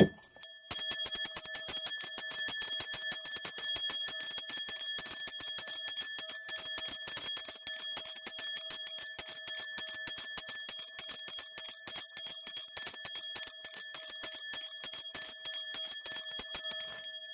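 A shaman's bundle of ritual brass bells (mudang bangul) shaken rapidly and without pause: a dense, continuous jingling ring that starts just under a second in and stops near the end. Shaking the bells calls the spirits at the start of a spirit divination.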